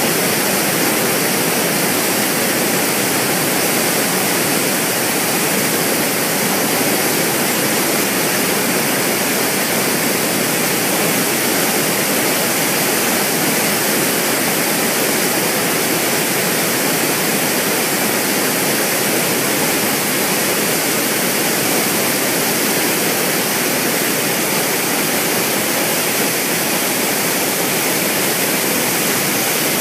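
Loud, steady rushing roar of water released from a dam during a test discharge, pouring out and crashing down in a continuous torrent.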